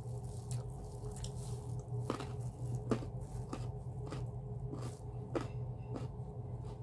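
Close-up chewing of raw carrot: a steady run of crisp crunches, one every half second to a second, over a steady low hum.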